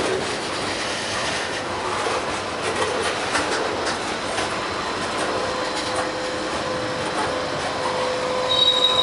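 Freight train cars rolling past at close range: a steady rush of steel wheels on rail with faint clacks. A steady squeal sets in about halfway and holds, and a higher squeal joins it near the end.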